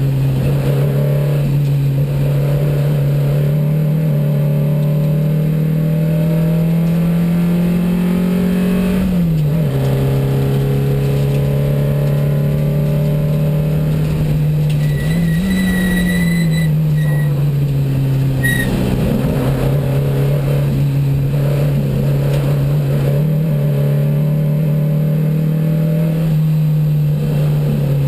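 1972 Porsche 914 race car's 2270 cc flat-four engine running hard, heard from inside the stripped, roll-caged cabin. The engine note climbs slowly, drops sharply about nine seconds in, dips and jumps back up around fifteen seconds, falls away over the next few seconds, then climbs steadily again. A couple of short high squeals come through around the middle.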